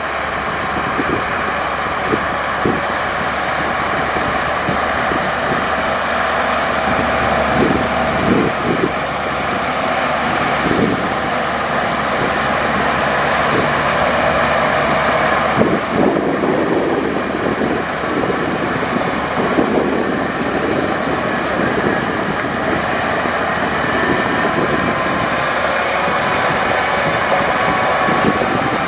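Heavy diesel earthmoving machinery running steadily under load, with irregular metallic clanks and knocks.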